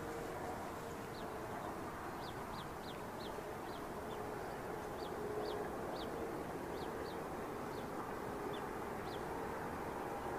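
Steady low rumble of a freight train's diesel locomotives and cars, with a faint steady hum, while a small bird repeats short, quick falling chirps over it.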